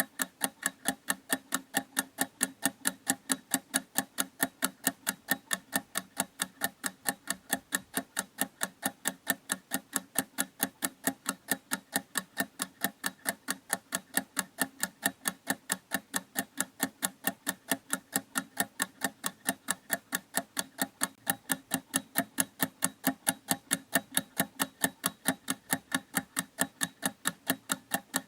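Clock ticking steadily, about four even ticks a second.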